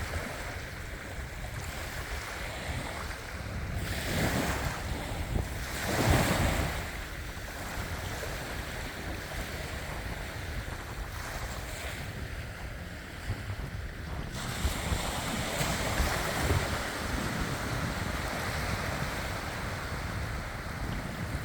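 Sea waves washing in, with wind buffeting the microphone. Louder surges come about four and six seconds in, and again near the middle.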